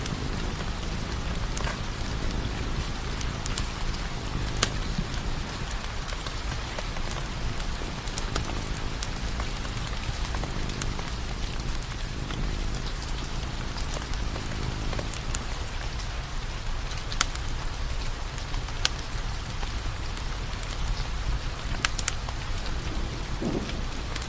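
Steady rain hiss with a low rumble underneath, and sharp pops and crackles of burning firewood breaking through now and then, a few of them standing out loudly.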